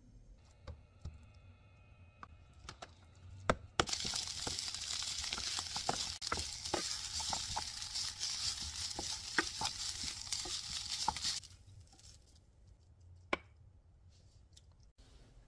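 Bulgogi fried rice sizzling in a frying pan as it is stirred and tossed with two wooden spatulas, the spatulas clicking and scraping against the pan. The sizzle starts suddenly a few seconds in and cuts off after about seven seconds; before it there are only a few faint clicks.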